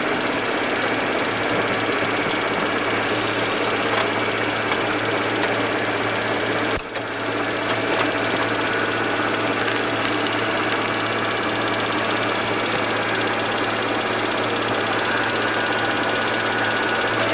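Steady flight-deck noise of a Boeing 737-200 sitting at ground idle: its Pratt & Whitney JT8D engines and air conditioning running with a constant low hum, broken by a brief dropout about seven seconds in.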